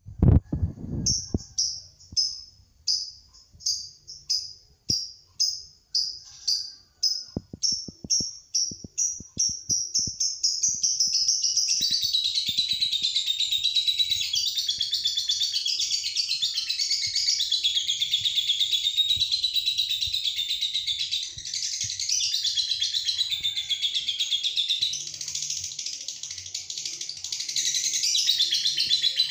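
Lovebird song: a string of separate high chirps that come faster and faster over about ten seconds, then merge into one long, unbroken, rapid chattering trill, the drawn-out 'ngekek' that keepers play as a masteran to train and stir up other lovebirds.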